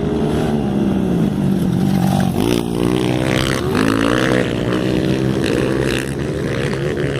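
Motocross motorcycle engines revving and running on the track, several at once, their pitch repeatedly climbing and dropping as the riders work the throttle.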